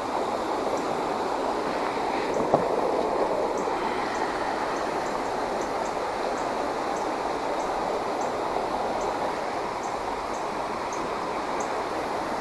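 Shallow creek water rushing steadily over rocks, with faint short high chirps about every half second and a single sharp click a couple of seconds in.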